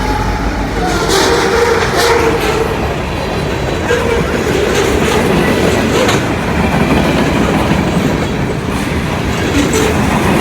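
Freight train passing close by: steel wheels clicking over rail joints, over a continuous heavy rolling noise.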